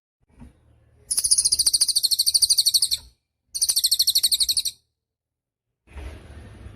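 A cililin songbird singing very high, rapid buzzing trills: one trill about two seconds long begins about a second in, and a shorter one follows. Near the end a faint hiss sets in.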